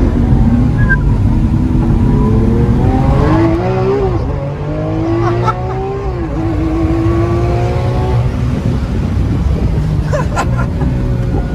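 Lamborghini Aventador's V12 accelerating hard with its exhaust valves open in Corsa mode. The engine note climbs, drops sharply at two gear changes about four and six seconds in, then climbs again more slowly.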